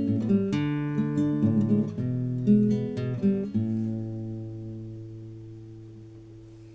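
Closing bars of a song played on guitar: plucked notes, then a last chord about three and a half seconds in that rings on and slowly fades away.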